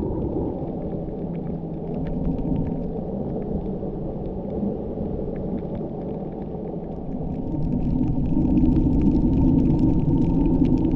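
Car driving on a wet road: a steady low rumble of engine and tyres, with a droning tone that swells louder from about three-quarters of the way in, and faint scattered ticks like rain on the car.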